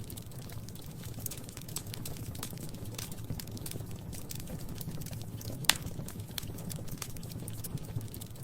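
Wood fire crackling in a fireplace: irregular small snaps over a steady low rumble of the flames, with one sharp, loud pop a little over two-thirds of the way through.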